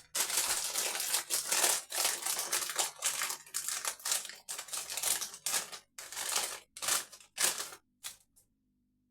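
Plastic crisp packet crinkling and crackling in quick, uneven bursts as it is handled and opened; it stops about a second before the end.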